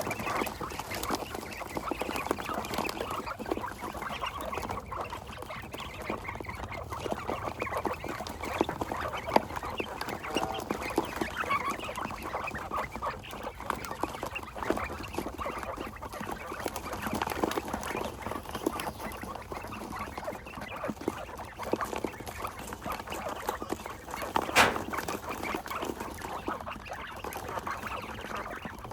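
A flock of quail calling and chirping without pause, many short calls overlapping. A single sharp click stands out near the end.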